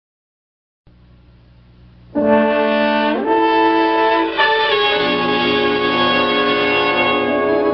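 Cartoon opening theme music: a loud brass fanfare of held chords that starts about two seconds in, after a faint hiss, and steps upward in pitch twice.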